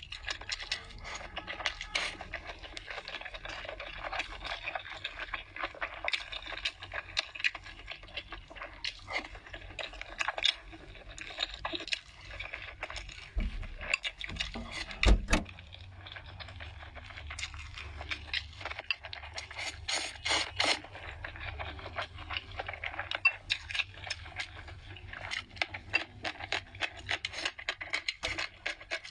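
Close-miked chewing and eating sounds of spicy hotpot noodles, vegetables and rice: many quick mouth clicks and crackles throughout. A single loud thump about halfway through.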